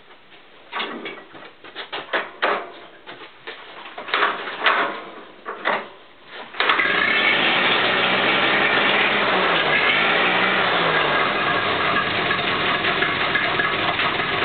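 Freshly rebuilt Ferguson Brown tractor engine being started: a series of irregular knocks and coughs as it turns over, then it catches about seven seconds in and runs steadily.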